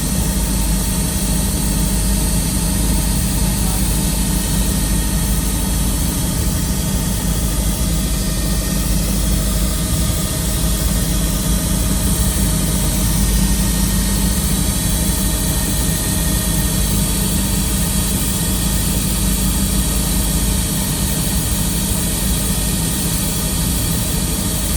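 Helicopter turbine and rotor noise heard from inside the cabin in flight: a steady, loud drone with a hiss over it.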